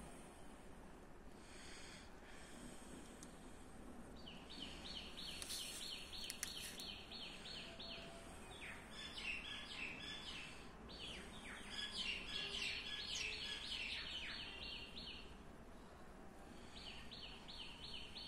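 A small bird calling in quick runs of repeated high chirps, about six a second, each run lasting a few seconds, with pauses between. A faint steady background noise runs underneath.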